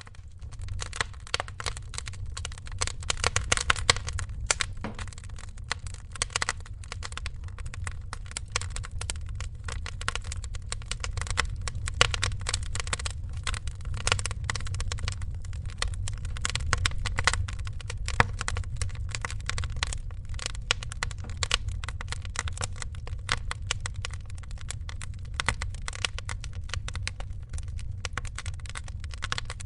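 Wood fire crackling and popping with dense irregular snaps over a steady low rumble, rising in at the start.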